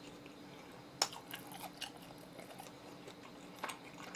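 A person chewing oven-roasted chicken close to the microphone, with scattered small mouth clicks and a sharp click about a second in.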